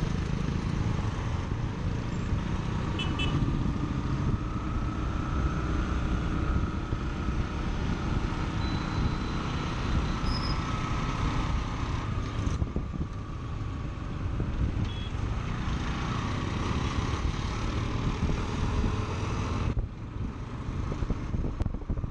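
On-board sound of riding a Bajaj Pulsar NS160 through traffic: the 160 cc single-cylinder four-stroke engine running under way amid road and wind noise, with other traffic around. An engine note rises and falls slowly a few seconds in, and there are a few faint short beeps.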